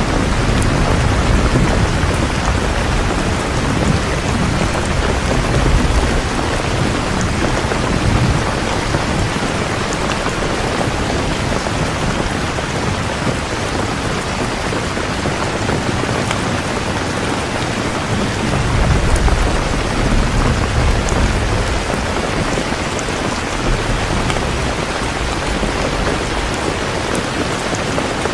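Heavy rain falling steadily, with low rolls of thunder swelling in the first few seconds and again from about two-thirds of the way in.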